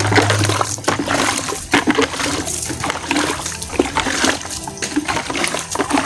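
Water splashing and pouring from a bucket being emptied, with an uneven run of splashes.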